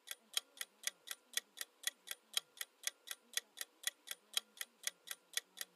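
Quiz countdown timer sound effect: a clock ticking about four times a second, alternating loud and soft ticks.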